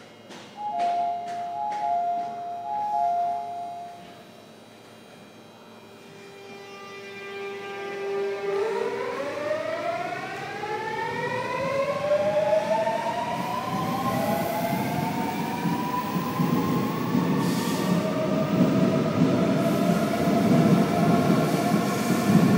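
Seoul Line 7 7000-series electric train departing: a repeating two-note chime sounds for the first few seconds. About eight seconds in, the inverter-driven traction motors start a whine of several tones climbing together in pitch as the train accelerates, over a rail rumble that grows louder.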